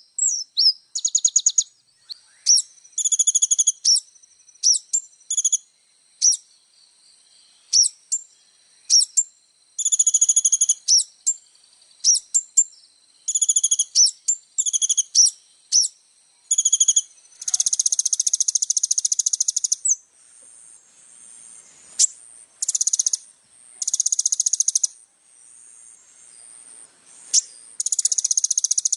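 Kolibri ninja sunbird singing a fast, high-pitched song of short chirping phrases and buzzy, insect-like trills, broken by brief pauses.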